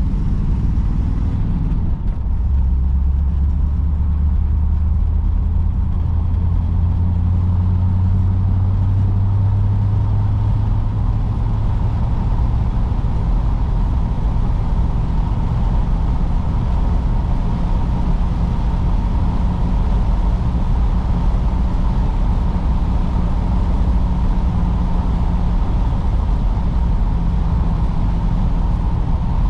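A 1953 Oldsmobile Super 88's V8 running under way with road noise: a steady low drone whose lowest note strengthens about two seconds in and eases back about eleven seconds in.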